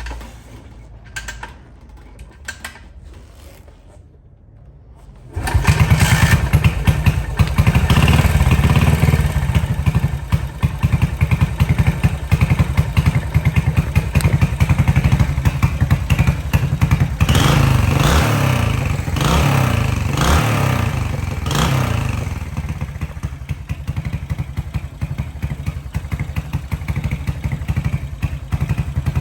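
1978 Yamaha SR500's single-cylinder four-stroke engine with a Capton-style muffler, starting suddenly about five seconds in after a few light clicks. It runs with a quick, even exhaust beat, gets a few throttle blips in the middle, then settles back to a steady idle.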